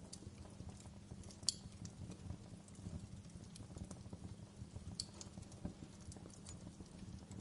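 Wood fire crackling in a fireplace: irregular small snaps and pops over a low steady rumble, with two sharper pops about a second and a half in and again around five seconds.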